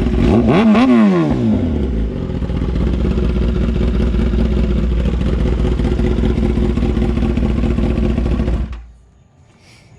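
Kawasaki ZX-10R inline-four engine through an SC Project CR-T exhaust: one quick throttle blip whose pitch rises and falls back within about a second and a half, then steady idling, which stops abruptly near the end.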